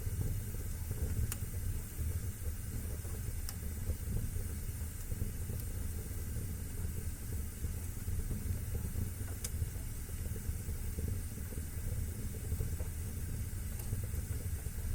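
Wood fire burning in a fireplace: a steady low rumble of flame with a handful of sharp crackles and pops scattered through it.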